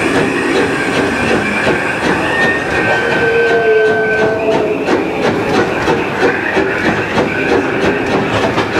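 1925 Baldwin steam locomotive Ernest S. Marsh, heard from its cab, running along the track with its oil fire shut off and working on the steam left in the boiler. There is a steady mechanical running noise with a light repeating beat, and a brief higher tone about three seconds in.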